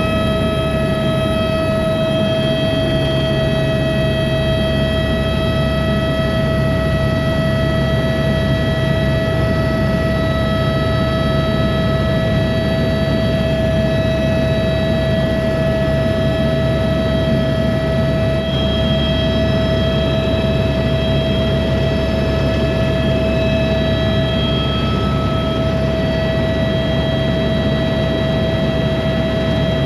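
Loud, steady machine drone with a deep rumble and a constant whine.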